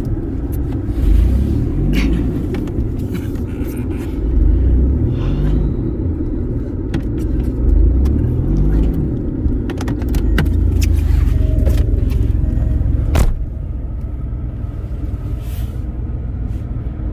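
Audi quattro engine revving up several times in rising sweeps over a heavy, steady low rumble, with scattered sharp knocks.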